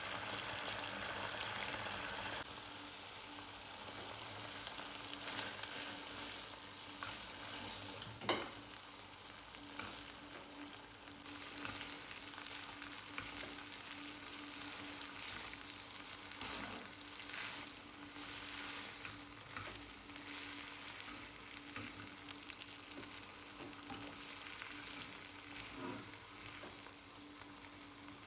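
Food sizzling in a frying pan as it is stirred, with scattered clicks and scrapes of a utensil against the pan. The sharpest click comes about eight seconds in.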